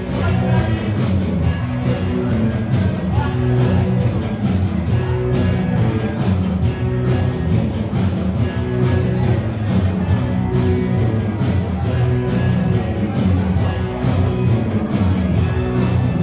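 Rock band playing live, electric guitar and bass over a steady drum beat.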